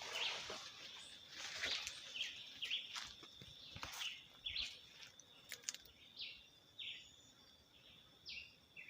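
A bird repeating a short falling chirp over and over, roughly once or twice a second, over a steady high insect ringing. Scattered rustles and steps through brush during the first half.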